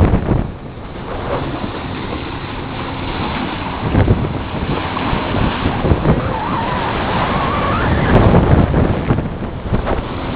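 Wind buffeting the microphone in gusts over the rush of water along a C&C 38 sailboat's hull under sail. A brief wavering whistle comes through about six seconds in.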